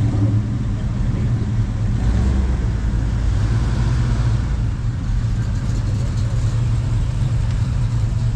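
Classic car engines rumbling close by, with one car driving past about two to four seconds in.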